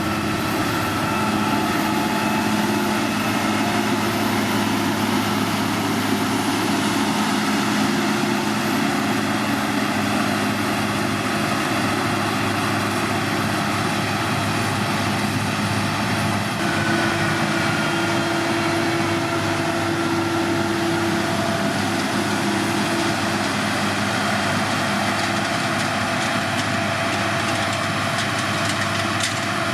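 Heavy diesel engine of road-construction machinery running steadily, its tone shifting about halfway through.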